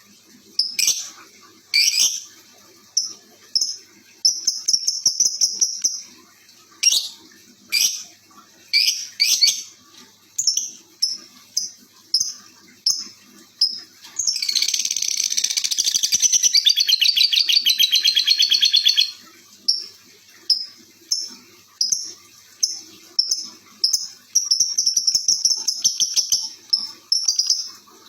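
Small pet songbird chirping: many short, high calls one after another, with a long rapid trilling song lasting about five seconds halfway through.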